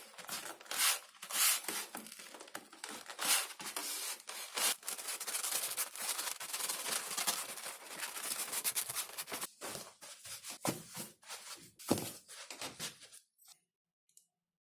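Hand work on XPS foam sheet: a quick run of scraping, rubbing strokes with a few louder ones, cutting off abruptly near the end.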